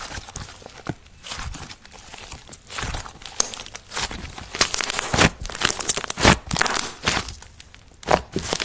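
Slime being squeezed, stretched and kneaded by hand, giving a run of irregular sticky crackles and pops that grows busier and louder around the middle.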